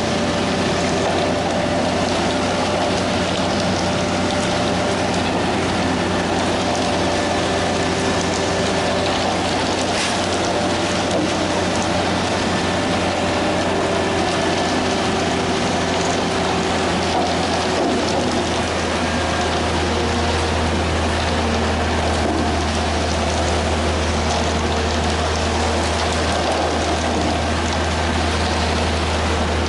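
Diesel engine of heavy construction machinery running steadily under a dense rattling mechanical clatter. The low engine drone grows heavier about two-thirds of the way through, as if under more load.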